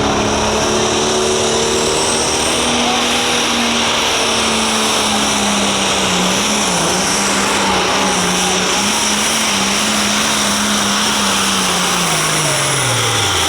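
Light limited pro stock pulling tractor's turbocharged diesel engine running hard at full throttle under the load of the pulling sled, holding a steady pitch, with a high turbo whine over it. Near the end the engine pitch falls away as the pull ends and the tractor comes off the throttle.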